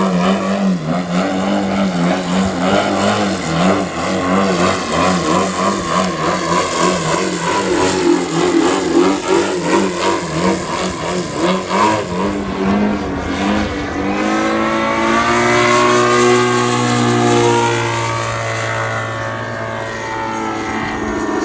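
YS TZ240 four-stroke boxer engine of a large RC aerobatic plane running hard, its pitch wavering up and down with throttle changes. From about two-thirds in it settles into a steadier note that drifts slowly down in pitch.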